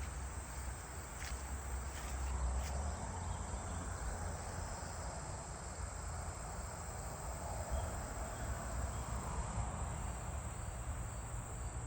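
Steady insect chorus, a continuous high-pitched chirring, with a low rumble on the microphone underneath.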